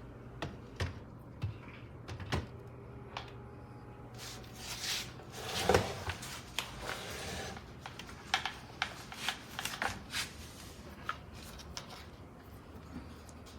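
Handling noises: a scattered series of light clicks and taps, with a longer rustling, scraping stretch around the middle that is the loudest part.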